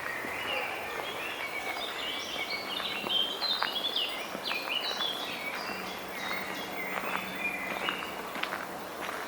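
Several songbirds chirping and singing, their short calls overlapping and busiest in the middle.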